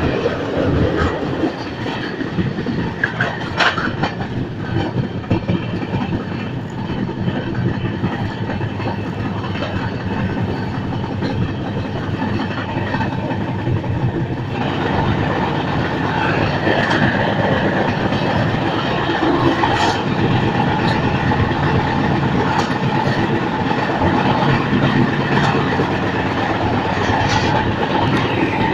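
Passenger express train running on the rails: a steady rumble and rattle of wheels and coaches. It grows louder and harsher about halfway through.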